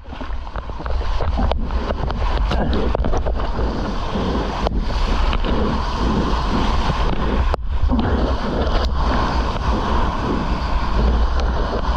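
Wind buffeting the microphone with a heavy low rumble, over the steady wash of ocean surf. The sound drops out abruptly twice, about halfway through and again a few seconds later.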